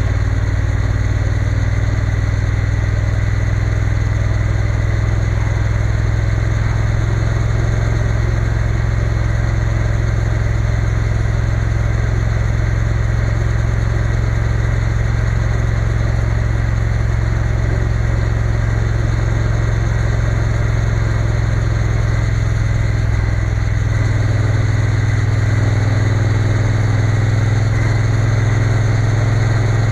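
Triumph Bonneville T120's parallel-twin engine running steadily under way, with a change in the engine note about 24 seconds in.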